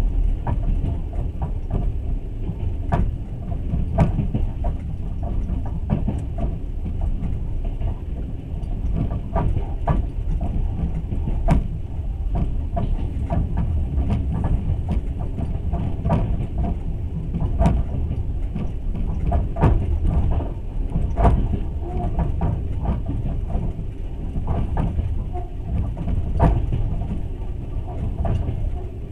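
Passenger train under way, heard from aboard the carriage: a steady low rumble of wheels on the track with frequent irregular clacks and rattles.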